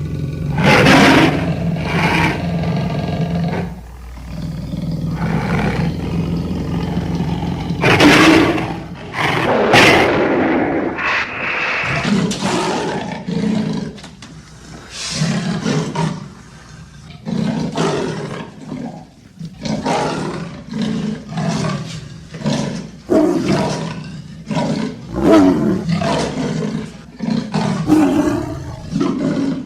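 A series of monster roars, snarls and growls for the Hodag, a cartoon creature whose voice is made from leopard, tiger, lion, wild boar and grizzly bear recordings. Longer roars come in the first half, then shorter calls follow about one a second.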